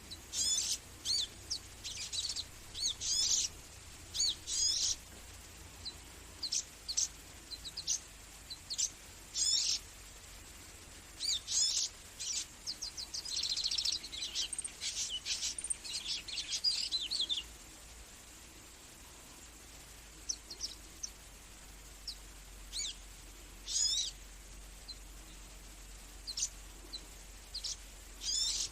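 Small birds chirping: quick, high-pitched chirps and short twittering phrases, coming thick and fast for the first half and thinning to scattered single chirps later.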